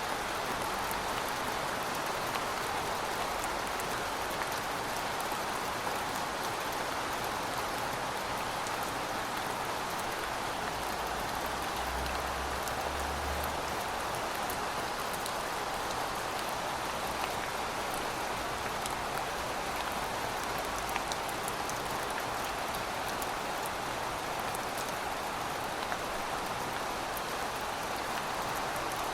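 Steady rain falling on pavement: an even, dense hiss of drops with fine sharper ticks scattered through it.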